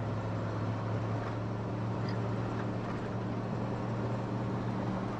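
1996 Ford F250 pickup's engine running with a steady low drone while the truck is driven, heard from inside the cab.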